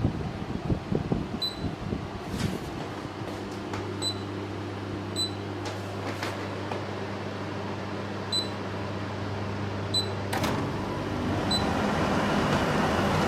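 Olimpia Splendid Dolceclima Nano Silent portable air conditioner humming steadily and giving six short, high electronic beeps. About ten seconds in there is a click, and a rushing air noise grows louder over the last few seconds.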